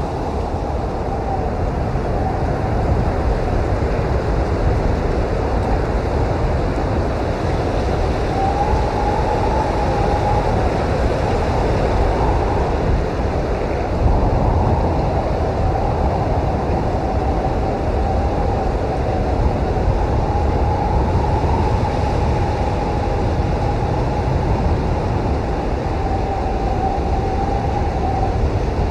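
Snowstorm wind blowing hard and steadily: a deep rumble with a faint whistle above it that wavers in pitch and swells and fades.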